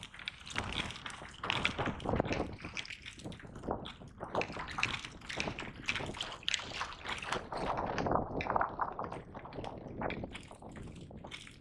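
Water splashing and lapping against a kayak, in an irregular run of short splashes.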